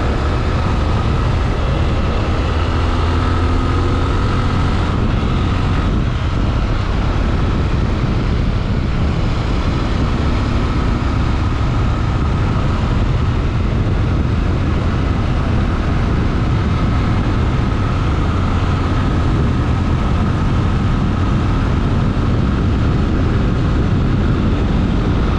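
Honda XRE 300 Rally's single-cylinder engine running steadily, with a constant rushing noise over it.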